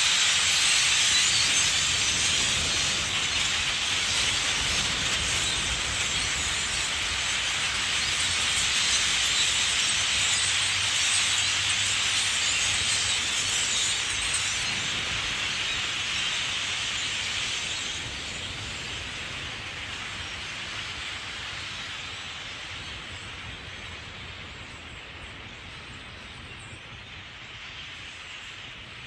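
A huge flock of common grackles calling all at once overhead: a dense, shrill, hiss-like din that fades steadily over the last ten seconds or so.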